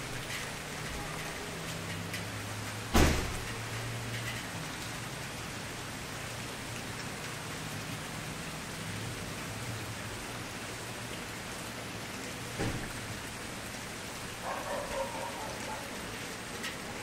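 Wood campfire burning with a steady hiss and crackle, one sharp loud pop about three seconds in and a smaller pop about two-thirds of the way through.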